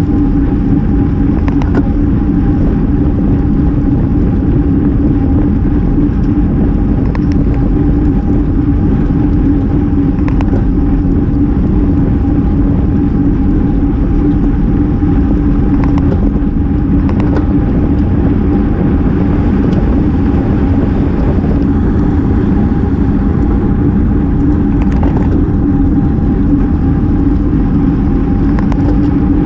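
Steady wind rush and road noise on a GoPro riding along with a road bicycle at speed, a loud, unbroken rumble with a constant hum and a few faint ticks.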